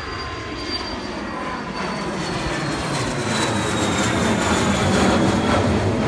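Cessna Citation business jet's turbofan engines running at takeoff power as it climbs out, the engine noise growing louder, with a high whine slowly falling in pitch.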